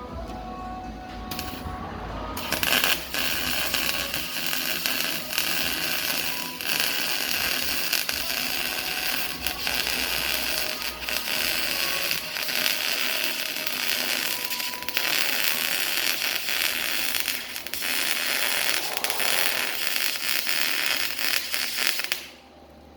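Welding arc crackling and sizzling on 3-inch exhaust pipe. It starts about two seconds in, runs with a few brief breaks, and cuts off suddenly near the end.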